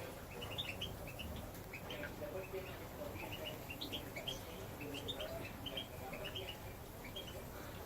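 A mixed flock of small finches (serins, siskins, linnets and goldfinches) twittering in an aviary, with many short, high chirps overlapping throughout.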